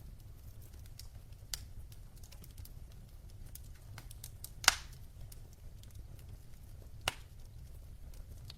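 Wood logs burning in a fireplace, crackling with scattered small snaps and three louder pops, the loudest about halfway through, over a low steady rumble.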